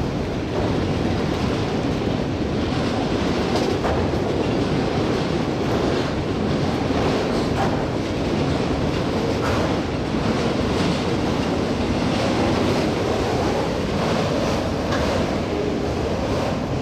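Autorack freight cars rolling past at steady speed: a continuous rumble of steel wheels on rail, with clicks every second or two as the wheels cross rail joints.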